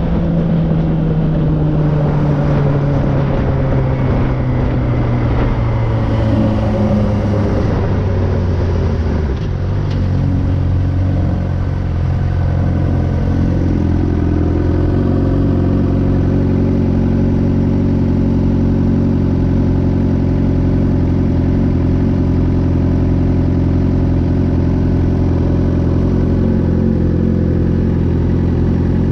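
Suzuki GSX-R 600 inline-four through an M4 exhaust: the engine note falls steadily for the first several seconds as the bike slows, then settles into a steady idle for the rest.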